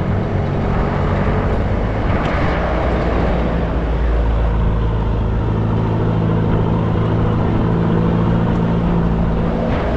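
Diesel engine of a Troller 4x4 running with a steady hum, under a constant noisy rumble.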